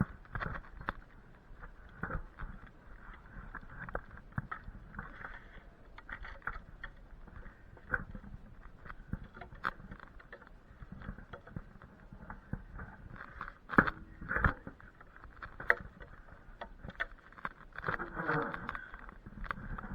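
Irregular crackling, snapping and rustling with scattered knocks, a couple of them louder about two-thirds of the way in, like cut branches and twigs being handled or trodden on.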